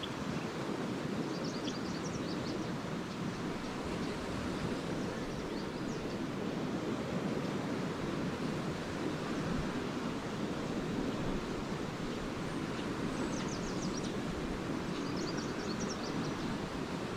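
Small lake waves washing steadily onto a sandy shore, with swallows twittering in short bursts a few times.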